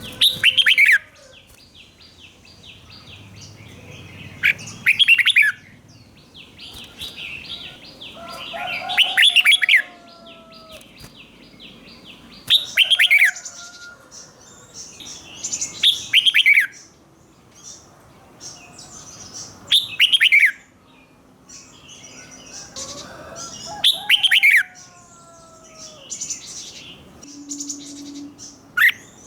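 Red-whiskered bulbul singing, loud short phrases of quick falling whistles repeated about every four seconds. This is the repeated 'doubled' (เบิ้ล) song used to teach caged bulbuls. Fainter chirping and a rapid high ticking fill the gaps between phrases.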